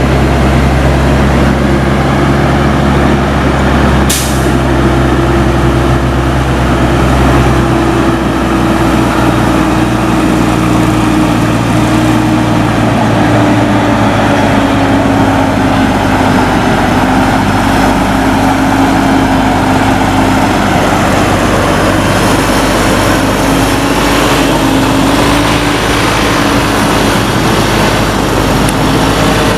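Heavy truck's diesel engine running steadily, its pitch slowly falling, with a sharp click about four seconds in.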